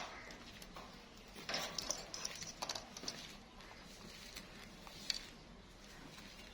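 Short scratchy clicks and taps from a pet plum-headed parakeet: a cluster about a second and a half in, another at two and a half seconds, and one sharp click about five seconds in.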